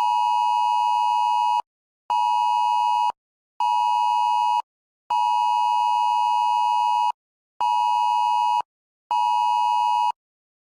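Wireless Emergency Alert attention signal sounding for a dust storm warning: a two-pitch tone in a long-short-short pattern, played twice.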